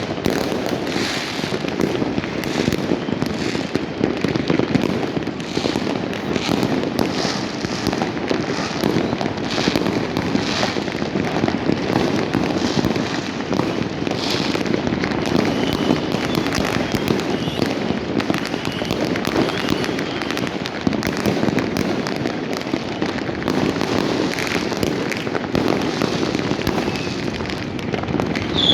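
Continuous barrage of fireworks and firecrackers, many bangs and crackles overlapping into a dense, unbroken din.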